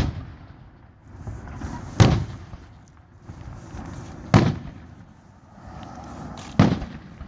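Aerial firework shells bursting in a fireworks display: four loud booms about two seconds apart, each trailing off in a short echo.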